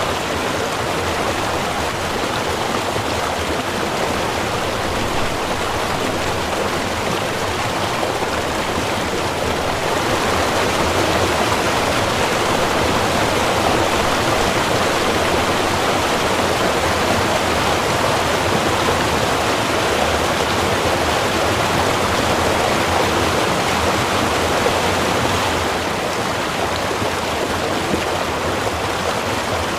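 Small river running steadily, a continuous rush of water that swells slightly louder through the middle of the stretch.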